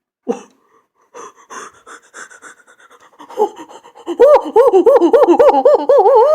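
A person panting in quick, short breaths, then breaking into loud, high-pitched laughter about four seconds in, its pitch wavering up and down about five times a second.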